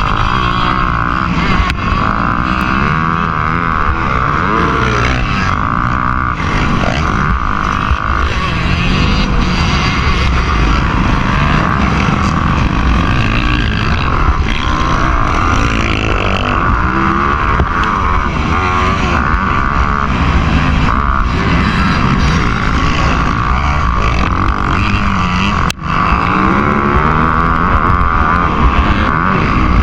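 Motocross bike engine running hard, the revs rising and falling again and again, with one brief dip a few seconds before the end.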